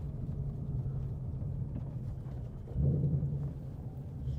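The 5.0-litre V8 of a 2026 Ford Mustang GT with active valve exhaust, running at low revs with a steady low rumble, swelling briefly about three seconds in.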